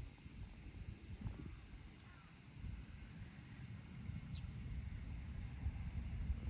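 Outdoor wind rumbling unevenly on the microphone over a steady high hiss, with a few faint bird chirps.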